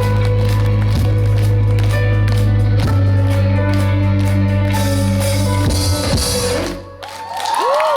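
Live band with drums, bass and guitar ending a song on a held chord that cuts off about seven seconds in; the crowd starts cheering just after.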